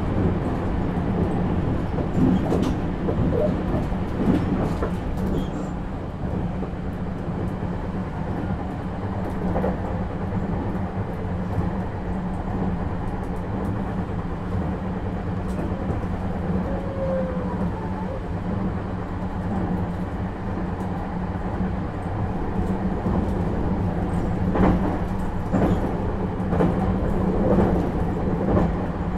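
Running noise of a 651 series electric train heard inside the passenger car: a steady rumble and low hum of wheels and running gear at speed, with a few sharp clicks, more of them near the end.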